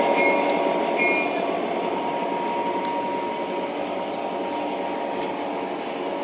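O gauge model train running on its track: a steady rolling noise with a constant motor hum, and a few short, paired high tones in the first second or so.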